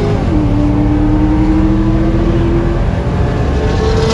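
Turbocharged Nissan 350Z's V6 engine running at a steady speed under heavy road and exhaust noise. Its pitch steps down slightly just after the start, then holds.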